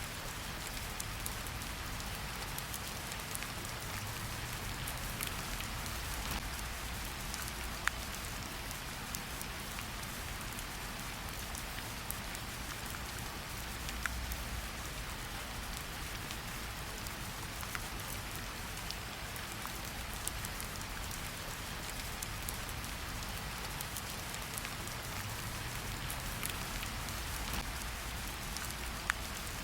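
Steady rain falling on foliage, an even hiss with scattered individual drop taps, a few sharper ones standing out now and then.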